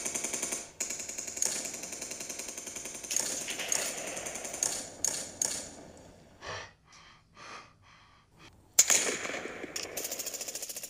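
Battle sound effects: rapid, steady machine-gun fire with louder single shots. The firing dies to a lull with a few faint thuds about six seconds in, then a loud shot near the end and the rattle resumes.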